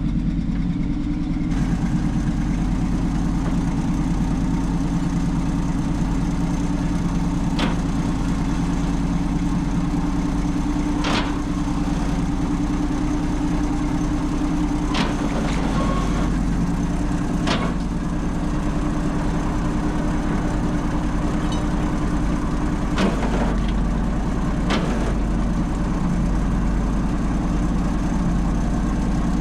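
An engine idling steadily, with a few sharp metallic clicks and taps over it.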